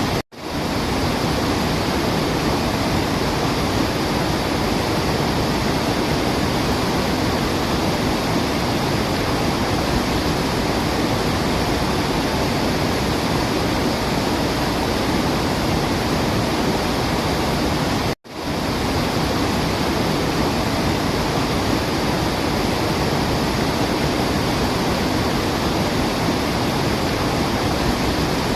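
Waterfall: a steady rush of falling water with no birdsong. It cuts out for a split second twice, once just after the start and once about two-thirds of the way through.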